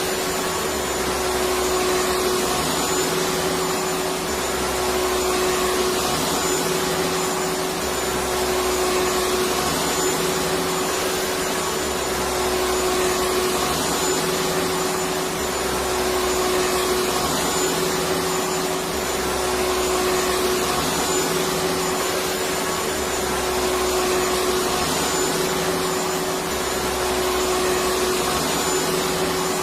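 Electric vacuum cleaner running steadily, its motor giving a constant whooshing hiss with a steady hum, and a low throb that comes and goes every couple of seconds.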